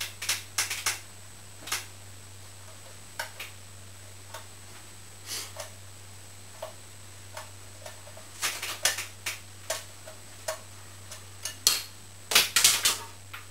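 Irregular clicks, taps and light knocks of hand tools and fan parts being handled during a fan repair. They come in small clusters over a steady low hum and are loudest near the end.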